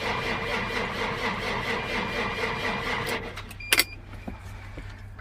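Case IH MXM 190 tractor's diesel engine cranking on its starter in freezing cold, turning over in an even rhythm of about five beats a second without catching, until the starter is released about three seconds in. A brief loud sharp click follows, and the engine stays dead: a hard cold start without its block heater.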